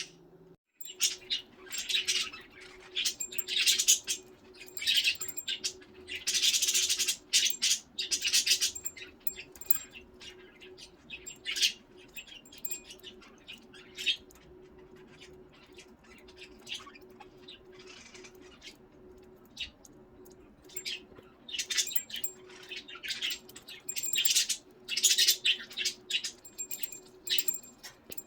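Pet budgerigars chirping and chattering in quick bursts, in busy spells at the start and near the end with a quieter stretch in the middle. A steady low hum runs underneath.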